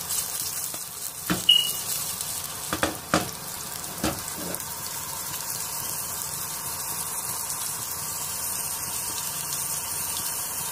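Thin strips of ginger sizzling steadily in hot oil in a small pan, with a few knocks in the first four seconds as the pan is swirled on the burner grate.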